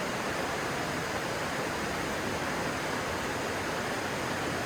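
Stream water rushing, a steady, even sound with no breaks.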